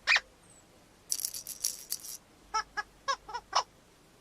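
Cartoon sound effects: a quick rising squeak, then a shaken rattle for about a second, then five short squeaky toots.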